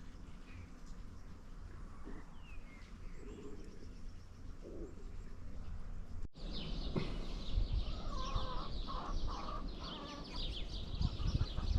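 Wild birds chirping and calling over a low rumble. About halfway through the sound changes abruptly to a busier chorus of many high chirps, with some lower calls mixed in.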